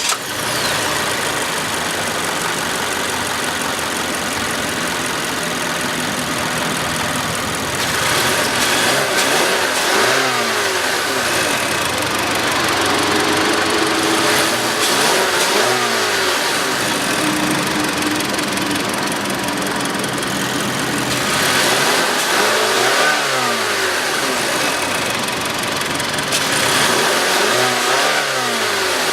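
Mazda 6's four-cylinder engine idling just after start-up, then revved freely four times, each rev rising and falling back to idle.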